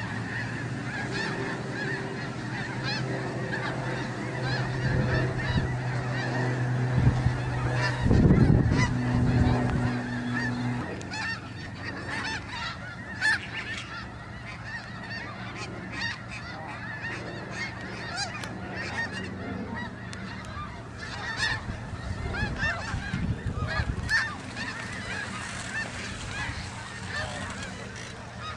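A large flock of snow geese calling continuously, a dense chorus of overlapping honks. A steady low drone runs beneath, swelling to its loudest about eight seconds in and dropping away near eleven seconds.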